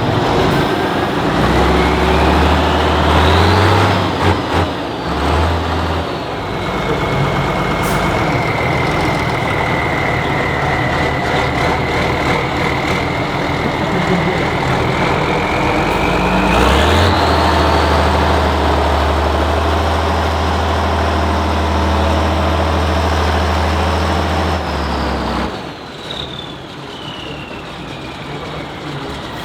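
Heavy off-road truck engine working hard, its revs and a high whine climbing, holding, climbing again and then dropping away near the end.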